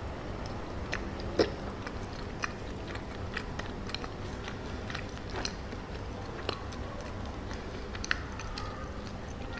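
Close-miked chewing and biting of chocolate cacao mochi: irregular wet mouth clicks and smacks, one louder about a second and a half in, over a steady low hum.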